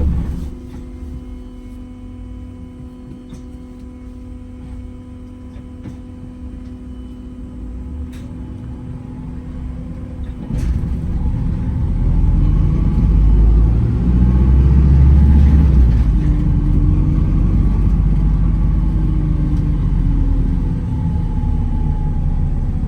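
Wright Gemini 2 hybrid double-decker bus heard from inside: a quieter stretch with a steady electrical hum, then about halfway through a low rumble builds and the pitch shifts as the bus pulls away and gathers speed.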